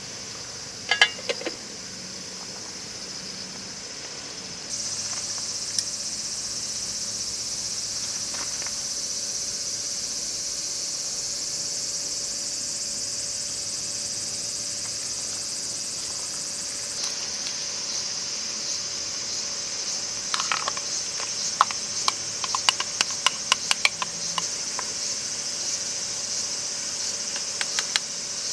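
Steady, high-pitched chorus of crickets and other insects that grows abruptly louder a few seconds in. There are a few sharp clicks about a second in, and a run of quick ticks and knocks in the last third.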